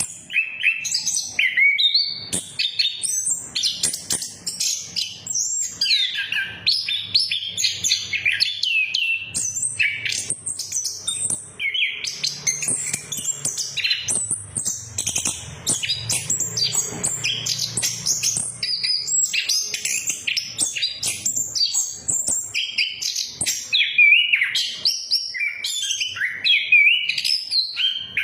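Orange-headed thrush (anis kembang) singing a continuous, varied song of rapid whistled phrases and chattering notes without a pause. It is a lure song meant to set a silent caged male singing.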